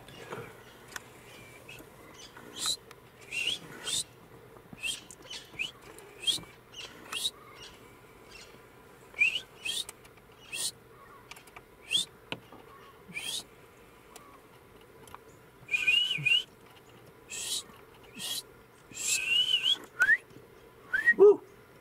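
Birds calling: short, high chirps repeated irregularly, mostly rising in pitch, with longer warbling calls about two-thirds of the way through and a call that falls steeply in pitch near the end.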